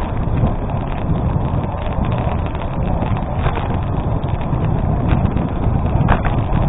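Gravel bike tyres rolling over a gravel road: a steady crunching rumble with wind buffeting the microphone, broken by a few sharp clicks.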